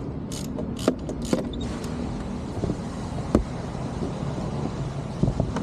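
Steady low hum of a motor vehicle engine running, with a few sharp metallic clicks and knocks of hand tools, the loudest a little past halfway and a short cluster near the end.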